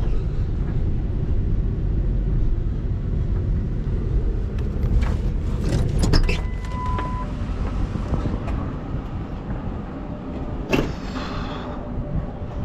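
Truck driving: a steady low rumble of engine and road noise, with a few knocks and rattles and a short steady beep about six seconds in.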